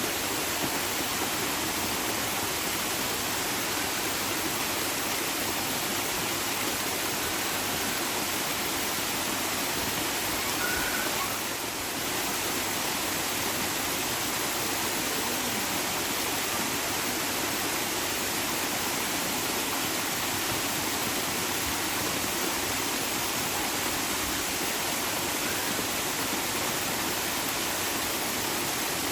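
Running water rushing steadily, an even, unbroken wash of noise like a stream or small waterfall.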